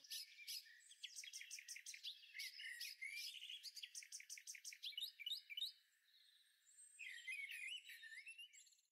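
Faint songbirds singing: quick runs of chirps and warbling trills, a break of about a second past the middle, then more warbling near the end.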